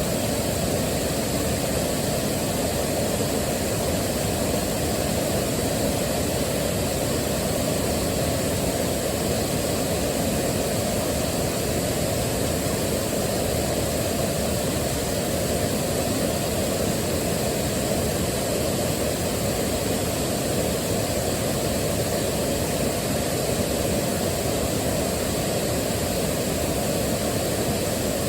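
Waterfall: a steady, unbroken rush of falling water, heaviest in the low and middle range and unchanging throughout.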